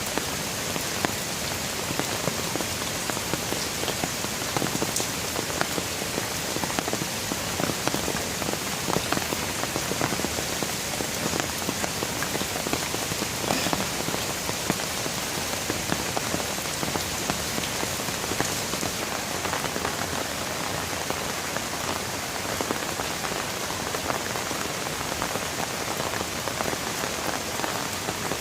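Steady rain falling, a continuous hiss with many separate drop impacts ticking through it.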